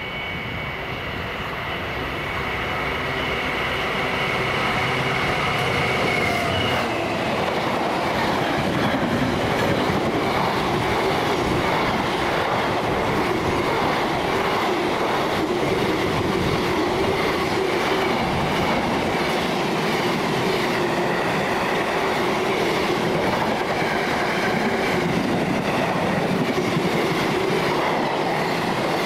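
Diesel freight locomotive hauling an intermodal container train through a station at speed: a steady high whine as the locomotive approaches, ending about six seconds in as it passes, then the long string of container wagons rumbling and clattering over the rail joints.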